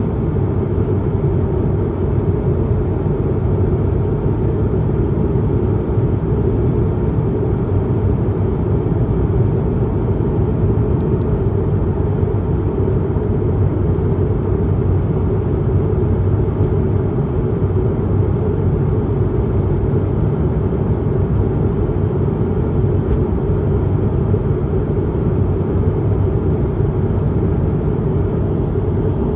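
Steady cabin drone of an Airbus A220-300 in climb, heard from inside the cabin: a deep, even rumble of airflow and Pratt & Whitney PW1500G geared turbofan engines, with a faint steady whine above it.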